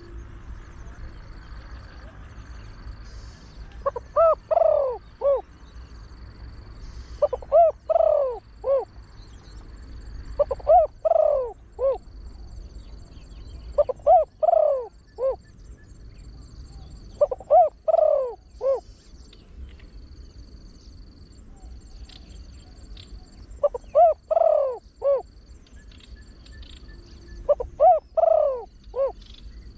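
Spotted dove with a deep voice cooing its short phrase of several notes, over and over, about every three and a half seconds, with one longer pause in the middle. It is a trained calling bird.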